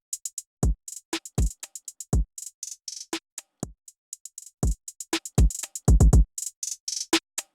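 Electronic drum machine loop playing alone: deep kick drums and crisp snare and hi-hat hits in a sparse, syncopated pattern, with short silences between hits. The drums run through the ComBear parallel compression plugin.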